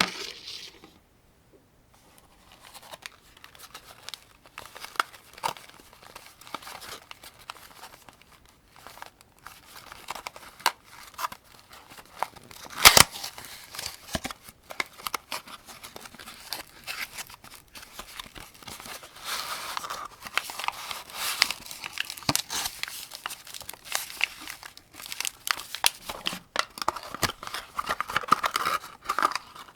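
7.62×39 mm cartridges being pressed one at a time into a 75-round AK-47 drum magazine: an irregular run of metallic clicks and scrapes, with one sharp, louder click near the middle.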